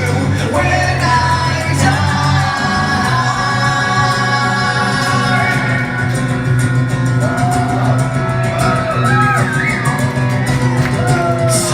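Live acoustic rock song: guitar with a singer holding and sliding between long notes, without clear words.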